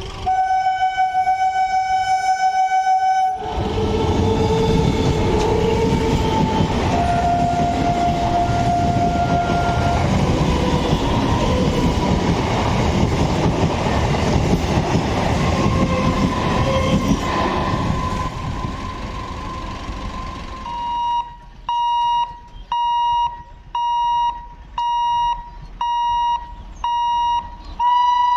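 A train horn sounds for about three seconds. A train then passes with loud rumbling and rattling, other horn tones mixed in, which fades after about 18 seconds. From about 21 seconds in, a high warning tone beeps roughly once a second, like a level-crossing gate alarm.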